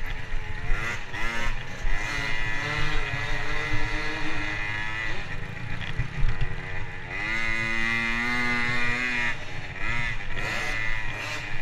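Motocross motorcycle engine revving hard, its pitch climbing in quick sweeps and holding at high revs for a few seconds at a time, twice, with dips in between like gear changes.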